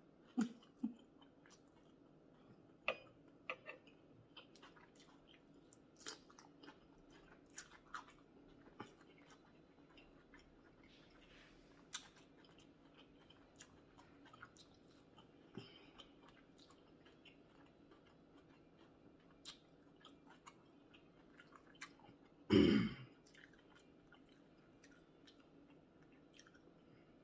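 A person chewing and smacking their lips close to the microphone while eating sausage, rice and cucumbers in sauce: scattered short wet smacks and clicks, with one louder half-second mouth sound about two-thirds of the way through.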